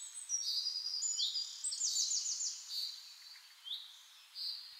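Birds chirping and whistling in a run of short, high calls, with a quick series of about five falling sweeps around two seconds in.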